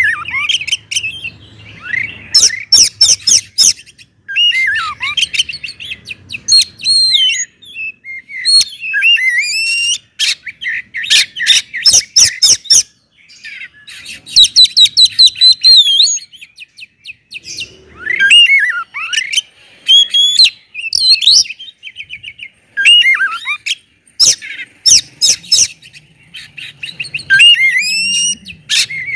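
Oriental magpie-robin (kacer) singing loudly in full song. Varied whistled phrases with sliding notes alternate with rapid runs of sharp chattering notes, with brief pauses between phrases.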